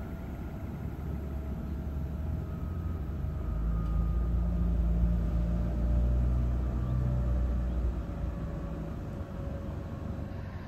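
Amtrak train with Siemens ACS-64 electric locomotives at each end passing at speed. A low rumble swells to its loudest about halfway through and then eases off, with a thin whine that slowly drops in pitch.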